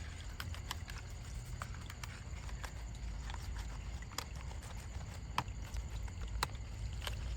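Light, irregular clicks and taps, a few sharper ones about five and six and a half seconds in, over a steady low hum.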